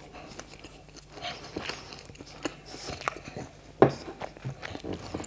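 Close-miked chewing of a mouthful of hot dog and bun, with soft wet mouth clicks and smacks. A sharper click or knock comes a little before four seconds in.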